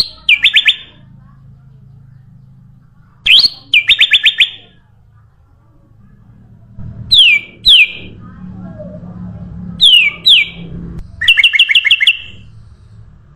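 Kutilang emas, a bulbul, singing loud whistled phrases every few seconds. Each phrase is a quick rising or falling whistle followed by a short run of fast notes, and the last is a rapid trill of about six notes.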